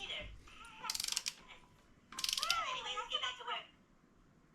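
Ratchet wrench clicking in two short, quick runs as a bolt is turned.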